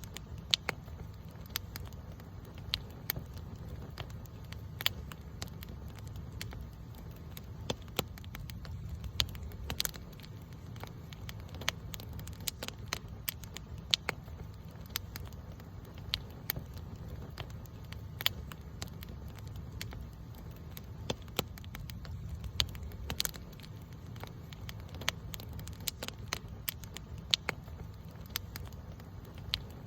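Campfire burning, with frequent sharp, irregular crackles and pops over a steady low rumble of flame.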